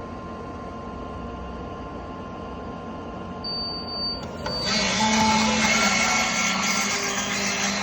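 Instant hot-drinks vending machine making a hot chocolate: a steady hum, a short high beep about three and a half seconds in, then the whipper bowl motor starts about a second later and whirs loudly as it mixes the powder with hot water.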